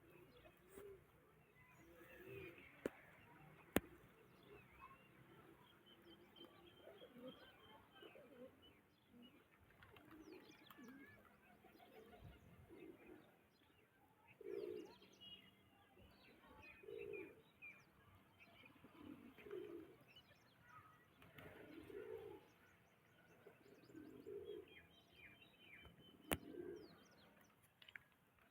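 Faint dove cooing, a low phrase repeated about every two and a half seconds, with small birds chirping. Two sharp clicks stand out, one about four seconds in and one near the end.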